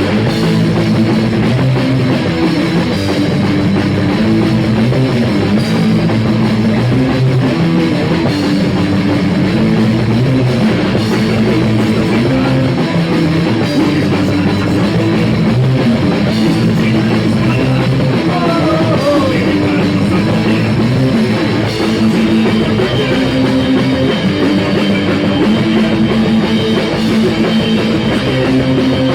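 Rock band playing live in a rehearsal room: drum kit and electric guitar, loud and steady.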